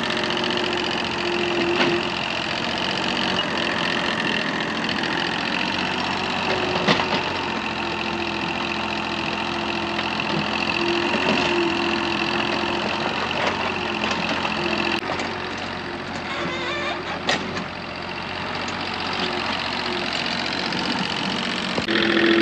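An engine running steadily with an even hum, and a few short knocks.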